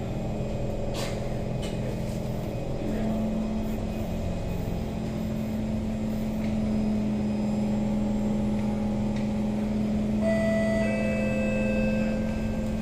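Steady electrical hum of a Kawasaki C151 train carriage standing at the platform, heard from inside the car. Several higher steady tones join about ten seconds in.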